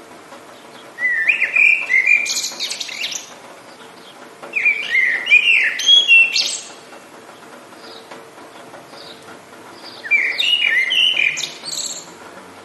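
A songbird singing three phrases of about two seconds each, made of quick chirps and whistled glides, with a faint steady hiss of rain underneath.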